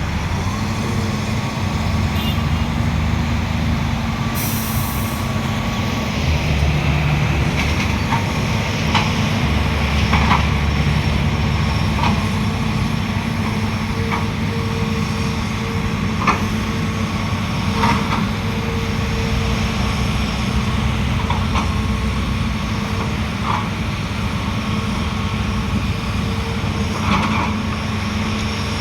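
Heavy diesel engines of a ten-wheel dump truck and an excavator running steadily while the truck tries to tip sticky clay that won't slide out of the bed. A short hiss of air comes about four seconds in, and scattered sharp knocks follow through the rest.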